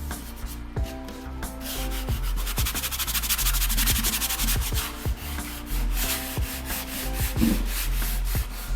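Table leg being sanded by hand: a rapid run of back-and-forth rubbing strokes, loudest through the middle of the stretch, over background music.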